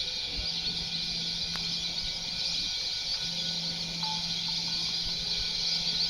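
Birds chirping in a dense, steady high-pitched chorus, with a faint low hum underneath.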